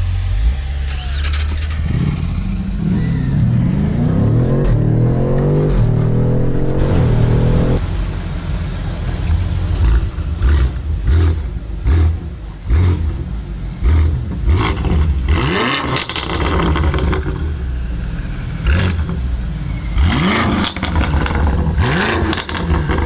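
A vehicle engine accelerating hard, its pitch rising and dropping back several times as it goes up through the gears. After that comes loud road and wind noise with scattered knocks and clatter.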